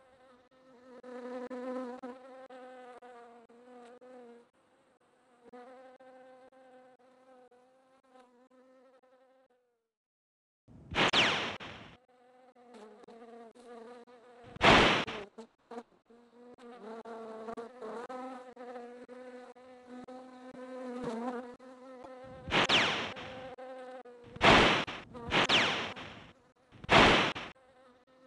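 A buzzing insect: a wavering hum that stops and starts, with a gap around the middle. Six loud, short bursts of noise break in, one about eleven seconds in, one near fifteen seconds, and four close together near the end.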